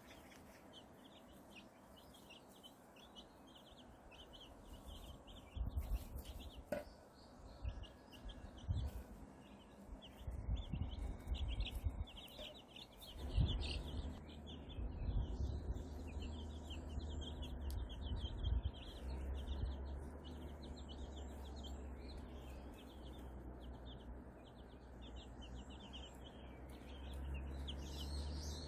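Young white silkie chicks peeping in quick, high, short chirps over and over. From about six seconds in there are low rumbles and knocks, then a steady low hum.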